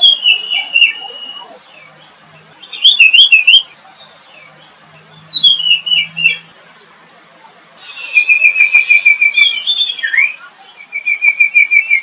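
Songbirds singing: short whistled phrases every couple of seconds, with rapid trills of repeated notes in the second half.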